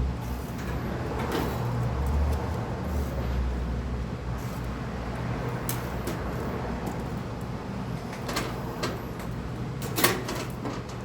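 Packing tape being pulled off a new kerosene heater, with scattered crackles and handling clicks and a sharp knock near the end, over a steady low hum.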